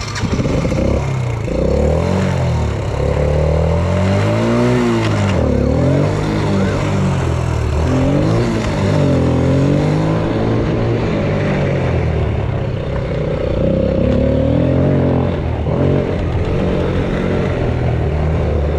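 Yamaha Raptor 80 quad's small single-cylinder four-stroke engine running under load as it is ridden, revving up and easing off again and again, so its pitch keeps rising and falling.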